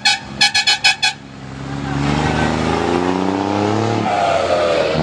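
A truck horn sounds a quick series of short toots. Then an engine accelerates, its pitch rising steadily, dropping about four seconds in, then climbing again.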